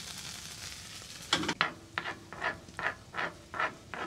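Onions frying in a pan with a steady sizzle, then a utensil stirring and scraping them in short, even strokes, about three a second, from a little over a second in.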